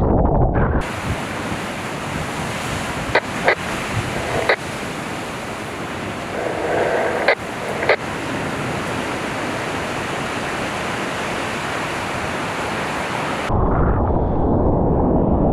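Steady rush of ocean surf and whitewater, with several sharp knocks between about three and eight seconds in. About a second in it replaces a low wind rumble on the microphone, which returns for the last two seconds.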